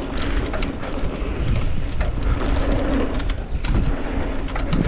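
Mountain bike riding fast down a dirt trail: wind rushing over the microphone and tyres rolling on dirt, with scattered clicks and knocks from the bike rattling over bumps.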